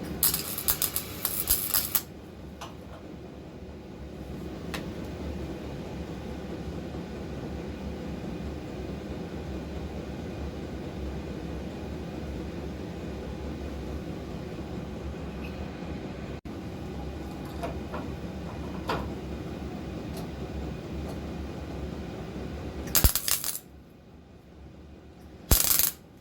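Welding arc crackling on car body steel in short stitch bursts: one about two seconds long at the start, then two brief tacks near the end. A steady low hum runs underneath and drops away near the end.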